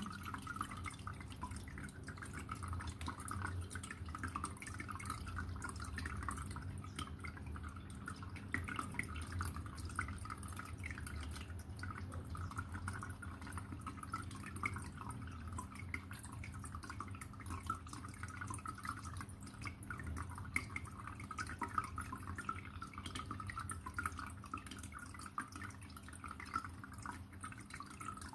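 Aquarium water trickling and splashing continuously in a dense patter of small drips, over a low steady hum.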